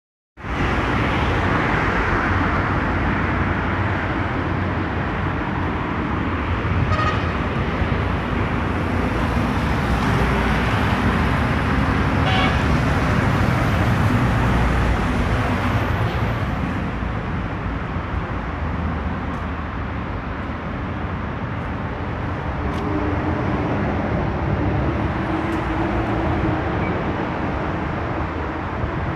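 Steady running noise of a road vehicle, an even rushing sound with no single clear engine note, starting abruptly at the very beginning.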